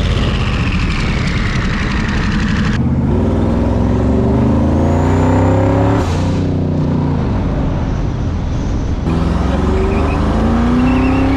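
Twin-turbo V8 of a 1967 Chrysler Newport under way, its engine note climbing in pitch as it accelerates, dropping and then climbing again. A faint high whistle rises briefly about five seconds in.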